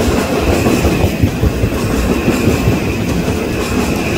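Metro-North M8 electric multiple-unit train passing close by: a steady rumble of wheels on rail with the clickety-clack of the cars over the track, and a faint steady high whine above it.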